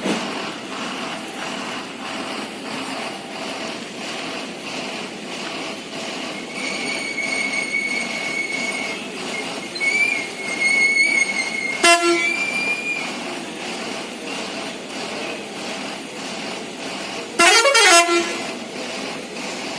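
Scania bus horn sounding: a short toot about twelve seconds in, then a louder blast of under a second near the end, over steady background noise. A thin high steady tone runs for several seconds midway.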